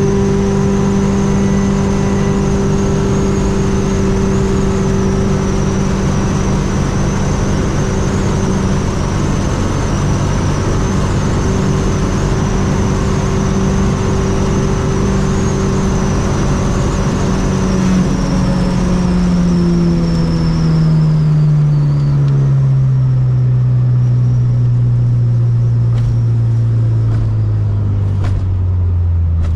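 Fiat 600 with a swapped 1.6-litre engine running at a steady cruise, then its engine note falls smoothly over the last ten seconds or so as the car slows. A faint high whine rides along with it and fades out during the slowdown.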